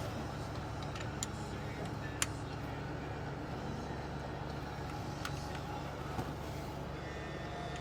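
Steady low engine hum, with a few short sharp clicks over it.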